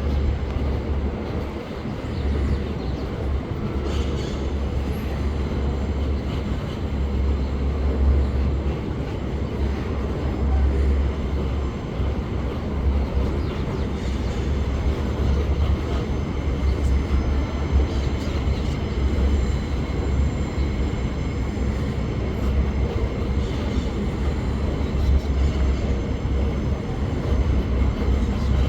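Freight train loaded with bauxite ore rolling past, a steady, heavy low rumble with a few faint clicks.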